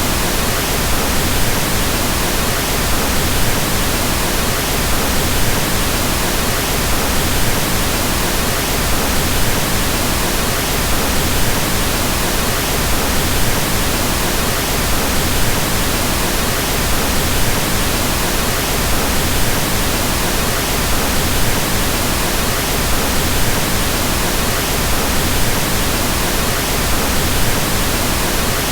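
Pink noise: a steady, even hiss across the whole range with no tones or events, a soft rushing sound.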